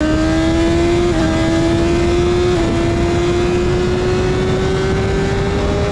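Superbike engine pulling under acceleration, its note climbing steadily, with two quick upshifts about one and two and a half seconds in.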